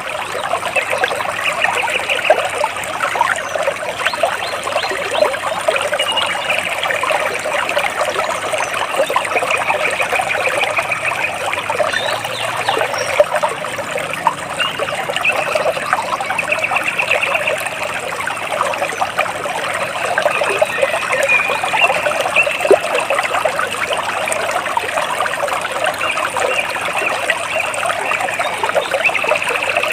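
Water splashing and trickling steadily. Birds give short, rapid trills every few seconds above the water.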